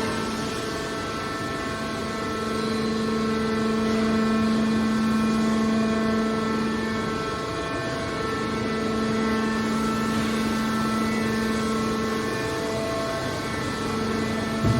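Hydraulic scrap metal baler shear running with a steady pitched machine hum from its hydraulic power unit.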